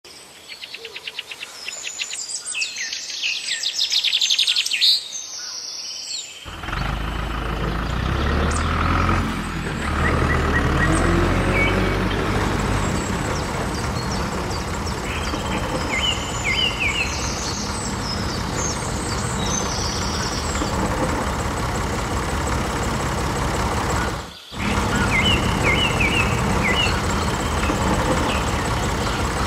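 A motor running steadily with a low rumble, birds chirping over it. Over the first five seconds a fast, even clicking rattle builds up before the motor sound comes in, and the sound drops out briefly near the end.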